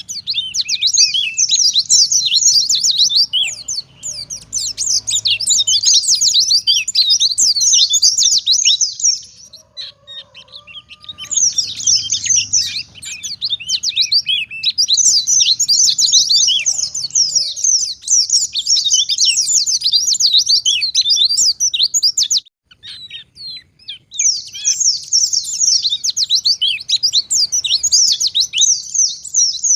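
White-eye (pleci) singing a fast, high, twittering song in long unbroken runs. It breaks off briefly twice, once about a third of the way in and once about three quarters of the way in.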